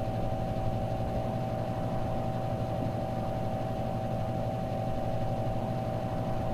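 A steady, unchanging droning hum with a few fixed tones.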